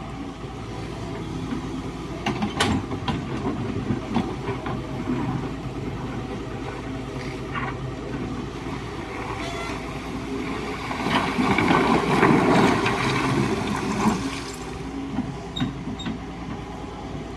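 Excavator working gravel in a streambed: its diesel engine runs steadily, with a few sharp knocks early on and a louder, rougher stretch of engine load and rushing noise past the middle.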